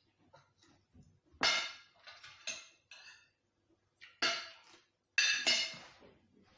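Tableware clinking at a meal: about five sharp knocks against a plate, each with a brief ring, the loudest two close together near the end.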